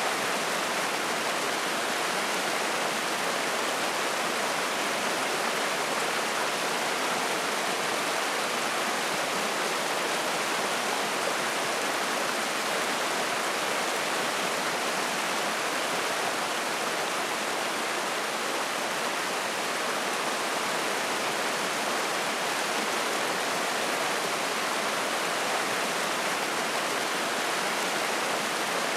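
Mountain stream rushing and splashing over rocks, a steady, even rush of water.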